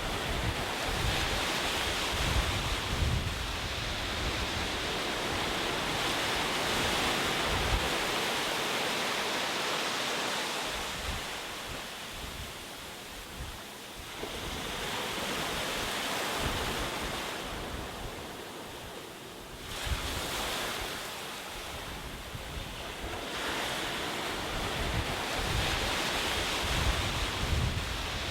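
Ocean waves washing onto a shore, a dense hiss of surf that swells and ebbs over several seconds, with a quieter lull before a new wave surges in suddenly a little past halfway. Gusts of wind rumble low on the microphone at the start and near the end.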